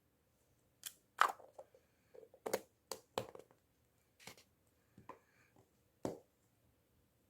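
A string of short, sharp knocks and clicks, about eight of them spread over five seconds, from objects being handled.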